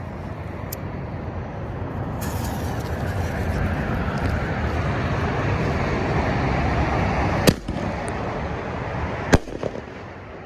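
A consumer firework going off: a hiss that builds for several seconds, then two sharp bangs about two seconds apart, over steady freeway traffic noise.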